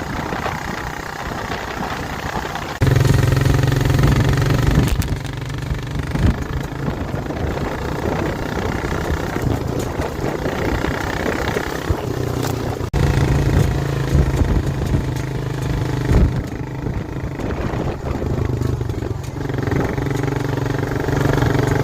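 ATV engine running under a rider's throttle, which opens and eases off repeatedly. It gets markedly louder about three seconds in and again about halfway through, with a brief drop just before the second rise.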